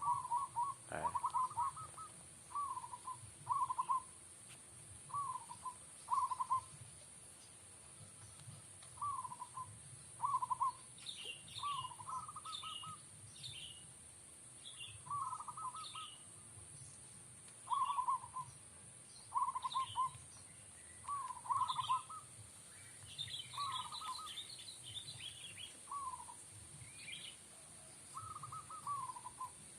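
Zebra dove (perkutut) cooing: short rolling coo phrases repeated every one to two seconds. Small birds chirp higher from about a third of the way in until near the end.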